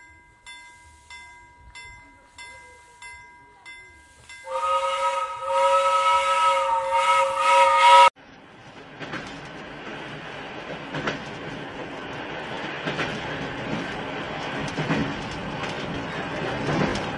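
Faint ticking about twice a second, then a train whistle sounds a loud three-note chord for about three and a half seconds and cuts off suddenly. After it comes a train running on the track, rattling, with irregular clacks.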